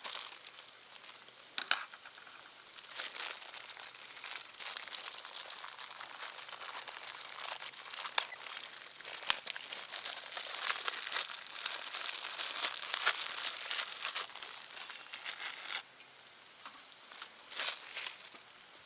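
Meat sizzling on a jingisukan grill pan over a wood fire, fat spitting in a dense crackle with a few sharp pops. The sizzle cuts off suddenly about sixteen seconds in, followed by a brief crackle near the end.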